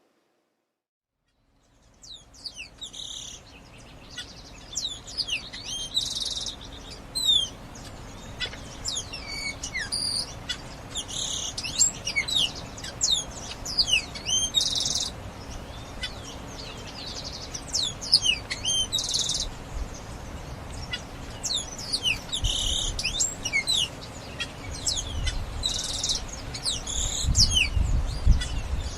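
A flock of birds calling, many quick downward-sweeping chirps overlapping and repeating, starting after a second or two of silence. A low rumble joins in near the end.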